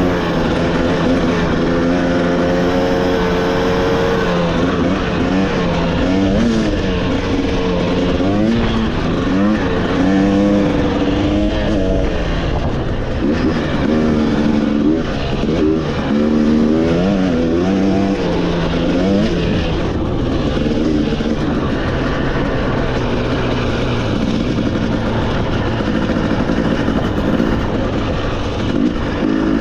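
Off-road motorcycle engine running under changing throttle, its pitch rising and falling again and again, then holding steadier and lower for the last several seconds.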